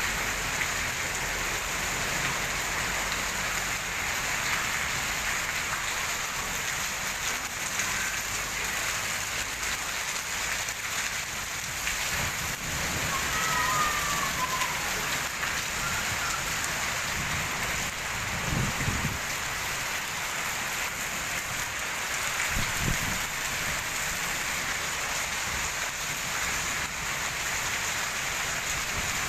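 Heavy rain pouring down steadily, with two brief low rumbles about two-thirds of the way through.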